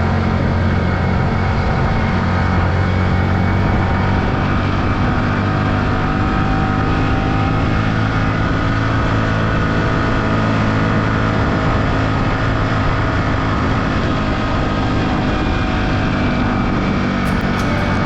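Yamaha R15 V3's single-cylinder engine running at a steady pace while riding, with a constant rush of wind and road noise.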